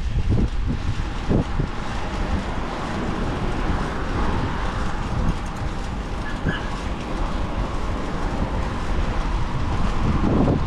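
Wind buffeting the microphone over road and tyre rumble while riding a fixed-gear road bicycle, with a faint steady hum in the middle stretch.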